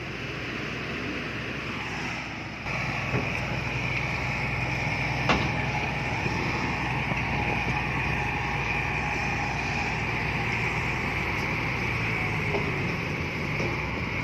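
Heavy earthmoving machine's engine running steadily under work, stepping louder about three seconds in, with a single sharp metallic knock a couple of seconds later.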